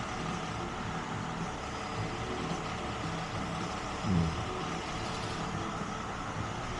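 A truck engine idling steadily, with a short falling sound about four seconds in.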